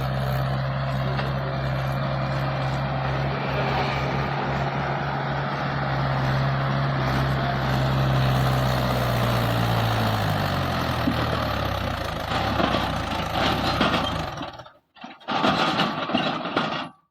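Heavy vehicle engine running steadily under a low, even hum; its tone fades away after about ten seconds, the sound cuts out abruptly near the end, and a couple of brief loud noisy bursts follow.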